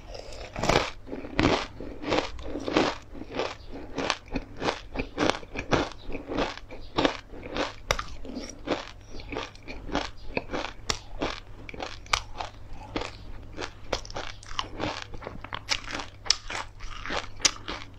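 Close-miked crunchy chewing of crisp fried food: a quick, uneven run of sharp crunches, several a second.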